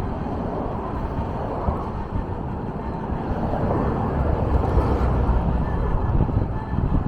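Steady noise of a vehicle in motion, without a clear rhythm or distinct events.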